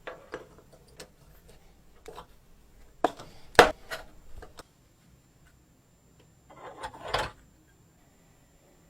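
Handling and assembly of small model-engine parts: scattered clicks and knocks with some rubbing. The loudest knock comes about three and a half seconds in, and a short scraping rustle follows near seven seconds.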